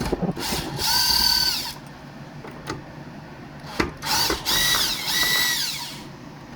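Power drill with a Phillips bit backing out the lid screws on a lawnmower. It whines up to speed, runs about a second and winds down. A couple of seconds later, after a few clicks, it does this twice more in quick succession.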